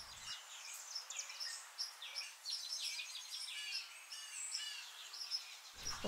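Songbirds chirping and singing, a steady run of many short, high notes and trills.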